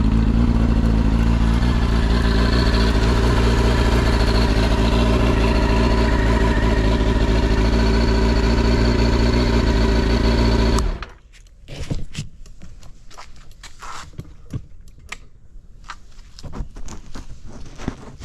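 Honda CB400SF VTEC Spec1 inline-four engine running steadily through a WR's aftermarket exhaust, which the seller calls smooth with no abnormal noise. It is switched off about two-thirds of the way through and stops abruptly, leaving scattered small clicks and knocks.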